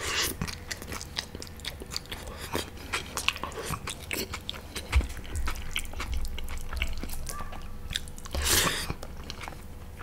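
Close-miked eating: chewing and biting food, with many small wet mouth clicks and a short, louder noisy burst near the end.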